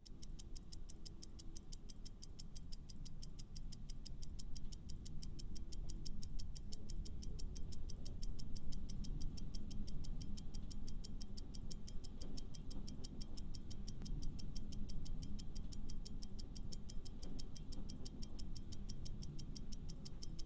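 Countdown-timer sound effect: a fast, even clock-like ticking that starts abruptly, over a low background music bed.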